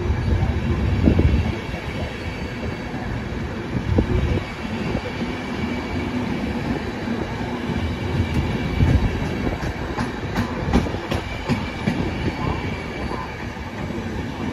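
Frecciabianca train's passenger coaches rolling along the platform: a steady low rumble of wheels on rail, with scattered clacks and knocks as the wheels cross rail joints.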